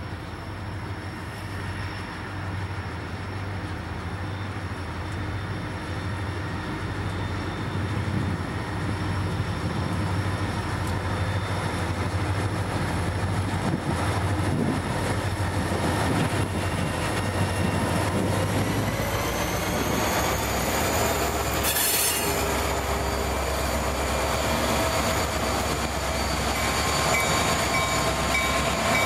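A freight train's diesel locomotives approaching and passing, engines running with a heavy rumble of wheels on the rails, growing louder over the first third and then steady as the units go by. A high whine rises in pitch about two-thirds of the way in.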